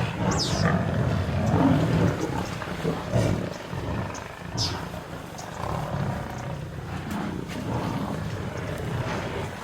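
Lions growling in an irregular low rumble while holding down a caught Cape buffalo, with two brief high squeals, one near the start and one about halfway through.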